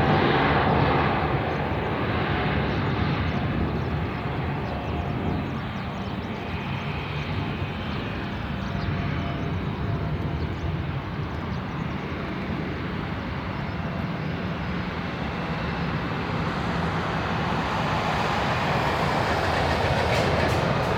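Jet engines of an Airbus A321 airliner during its landing: a steady, broad rumble that eases a little in the middle and swells again near the end.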